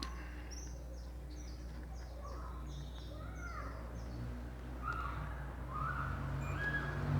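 Birds chirping: a quick series of short high notes in the first few seconds, then scattered lower chirps, over a steady low hum.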